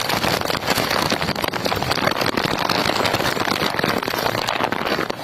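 Storm noise: heavy rain and strong wind, a loud, dense, crackling rush with no break.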